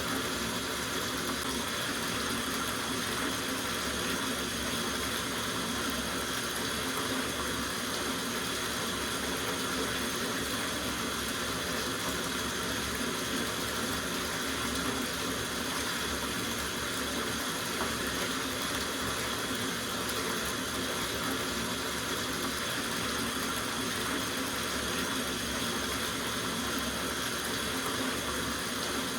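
Water running steadily from a tap into a soaking bathtub, an even rushing splash into the filling tub.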